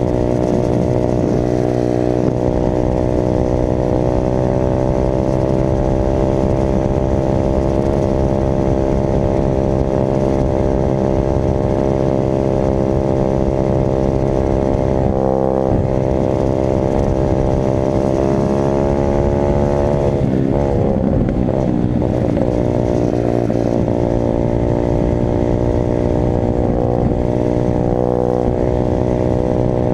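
Dirt bike engine running at a steady, held throttle, rising in pitch about two-thirds of the way in, then dropping and wavering briefly before settling back to an even note.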